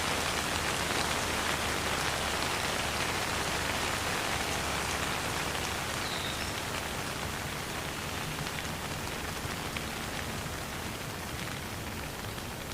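Steady rain falling, an even hiss of many drops, easing slightly toward the end.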